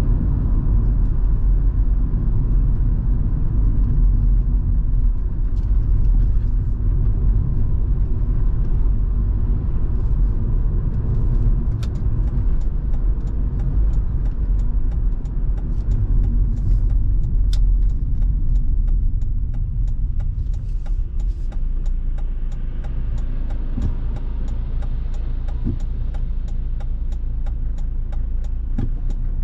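Volvo V70 2.5T's turbocharged five-cylinder engine and road noise, heard from inside the cabin as a steady low rumble while driving. From about ten seconds in, rain adds many small sharp ticks on the car.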